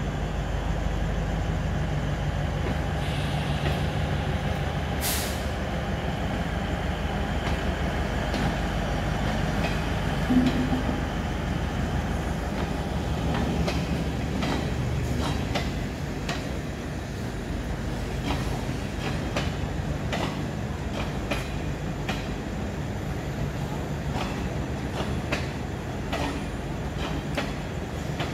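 DEMU passenger train passing, its diesel engine running with a steady low hum. From about halfway through, the wheels click more and more often over the rail joints.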